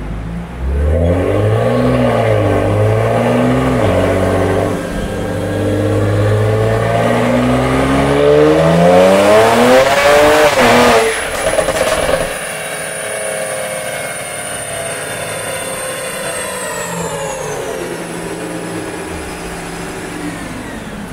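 Twin-turbo N54 inline-six of a stage 3 BMW 335i running on a chassis dyno. It revs up about half a second in, then makes a full-throttle pull that climbs steadily in pitch for several seconds and cuts off about eleven seconds in. After that the drivetrain and rollers coast down with a slowly falling whine under the engine's idle.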